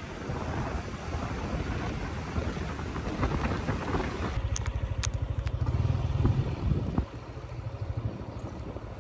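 A vehicle's engine running with a low, rapid pulse, under a wash of outdoor noise. The sound changes abruptly about four seconds in, with a few sharp clicks, and gets quieter near the end.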